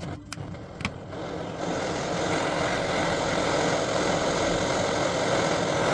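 Two sharp clicks, then a steady machine noise that comes on about a second and a half in and keeps running, like a motor.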